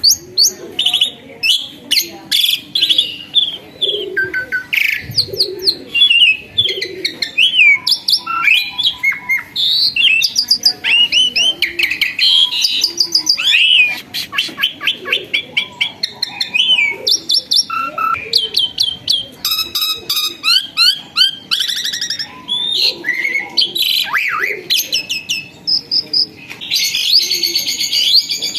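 Asian pied starling (jalak suren) singing continuously: a varied run of chirps, whistles, sweeping notes and rapid trills, with a dense stretch of fast warbling near the end. It is the persistent, full song keepers call gacor.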